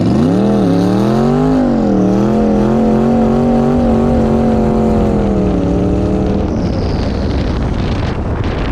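Car engine revving up and down twice, then holding a steady pitch before fading out about six and a half seconds in, over a constant rush of wind or road noise.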